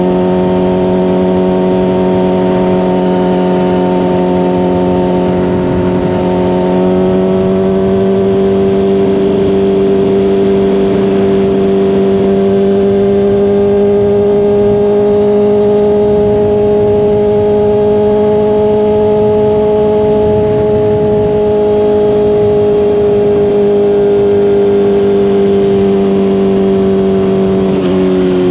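Honda CBR600RR's inline-four engine through a Hot Bodies Stinger slip-on exhaust, running at a steady cruising speed. Its pitch steps up slightly about a quarter of the way in, holds, then eases back and drops near the end as the throttle closes.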